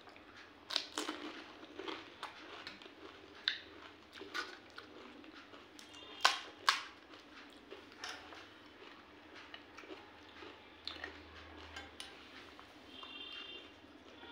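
Pani puri being bitten and chewed: crisp puri shells crunching and crackling in the mouth, with a scatter of sharp cracks, the two loudest a little past six seconds in.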